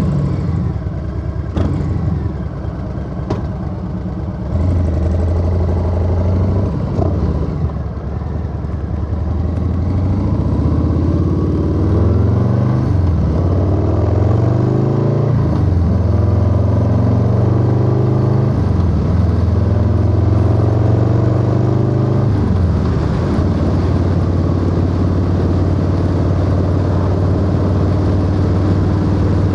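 Harley-Davidson Low Rider S V-twin through a 2-into-1 exhaust, idling just after start-up. It then pulls away, revving up and dropping back several times as it shifts up through the gears, and settles into a steady cruise for the last several seconds.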